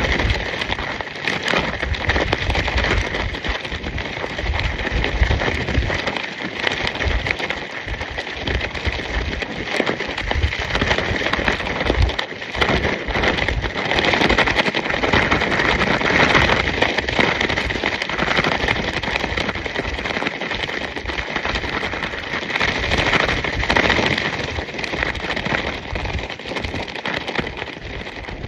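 Nylon tracksuit fabric flapping and rustling rapidly in gale-force wind, a dense continuous rattle that swells and eases with the gusts. Wind buffets the microphone underneath as a low rumble.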